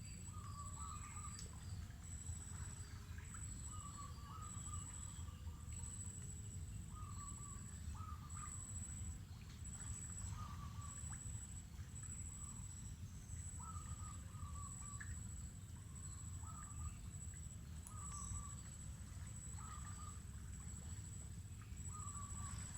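Faint natural ambience: a bird repeats a short call every second or two, over a high, thin insect trill that pulses on and off and a steady low rumble.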